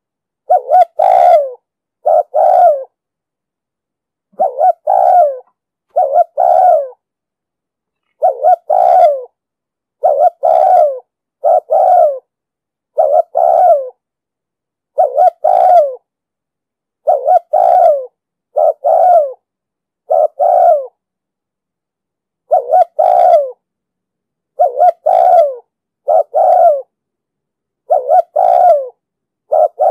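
Spotted dove cooing: short, low coo phrases, each of two or three notes, repeated about every second or two with silent gaps between them.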